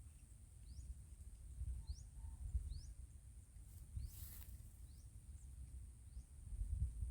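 Outdoor rural ambience: a short rising chirp repeats about once a second over a steady high-pitched hiss, with a low rumble underneath and a brief swish about four seconds in.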